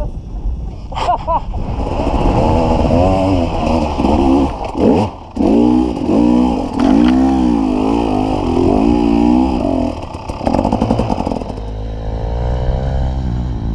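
Two-stroke KTM enduro motorcycle engine under hard load on a steep hill climb, revving up and down again and again as the throttle is worked.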